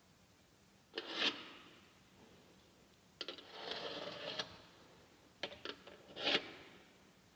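Three short bouts of scraping and rubbing, the middle one about a second long, with a few sharp clicks just before the last.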